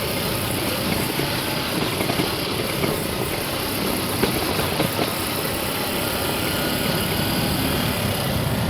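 Motor vehicle engine running with steady road noise while driving, a few small knocks and rattles along the way.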